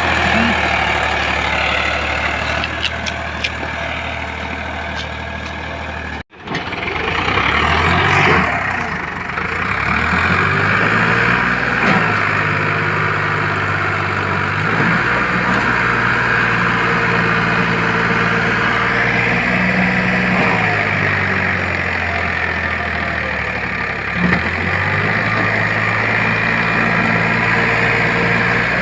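Farmtrac 45 tractor's three-cylinder diesel engine running, its pitch stepping up and down several times as the revs change. The sound cuts out briefly about six seconds in.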